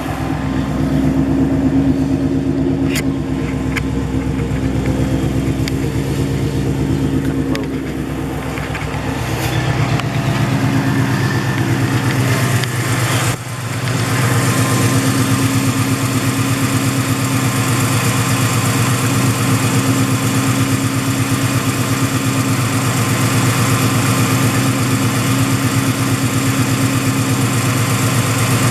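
2015 Mustang GT's 5.0-litre Coyote V8 idling steadily through Stainless Works headers and a 3-inch exhaust with no catalytic converters. It runs with a deep, even burble that dips briefly about 13 seconds in.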